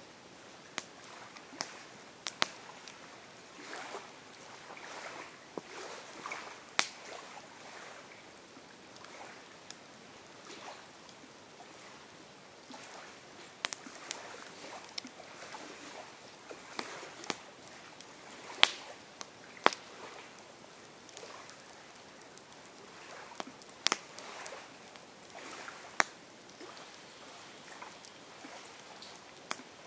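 Campfire crackling: a soft steady hiss with irregular sharp pops and snaps scattered through it.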